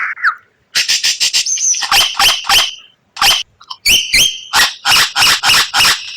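A songbird's series of sharp, harsh call notes, a few a second, in short runs broken by brief pauses. A few of the notes carry a short whistled tone.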